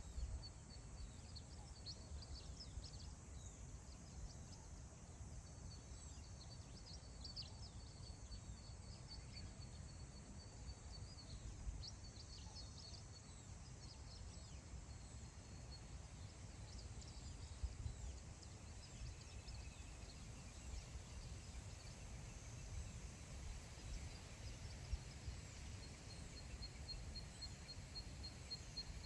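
Wind over open grassland, a low rumble on the microphone, with small birds calling high and thin at intervals. A fast, even trill sounds a few seconds in and again near the end.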